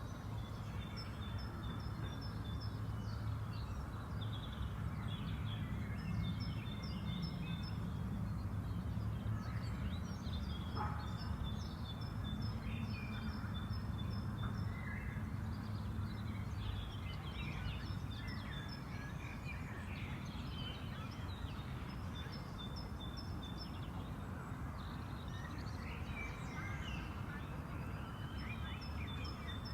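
Birds singing in a park, one of them repeating a short, rapid run of high notes every few seconds while other chirps come and go, over a steady low rumble of background noise.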